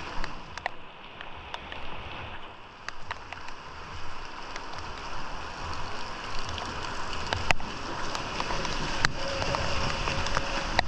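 Steady heavy rain falling, with scattered sharp taps and drips through it and a faint steady hum near the end.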